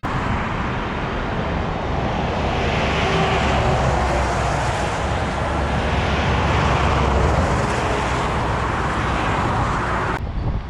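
Wind roaring over the microphone of a motorcycle at road speed, swelling and easing, with low engine and road rumble underneath. It cuts off abruptly about ten seconds in.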